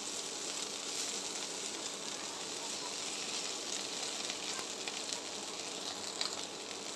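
Oil sizzling steadily as dried fesha fish fry with garlic cloves and dried and green chillies in a wok, with small crackles spitting through it now and then.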